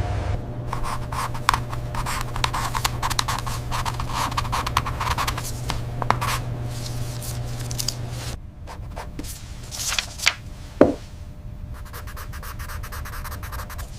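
Rapid, dense scratching and clicking by hand for about eight seconds over a low steady hum, then quieter with a few separate sharp taps.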